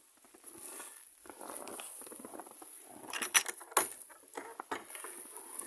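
Blizzard wind gusting unevenly, with a few sharp crunching clicks about three seconds in.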